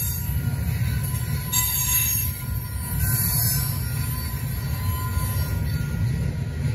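Tank cars of a freight oil train rolling past with a steady low rumble of wheels on rail. Thin high-pitched wheel squeal rides over it, with brief sharper squeals and hiss flaring up about one and a half to three seconds in.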